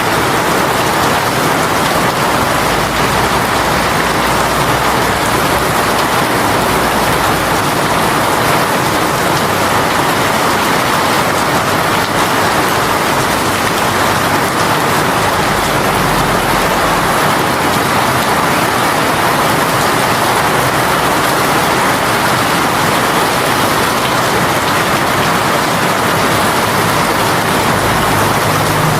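Heavy rain shower pouring steadily onto surfaces: a dense, even hiss of rain.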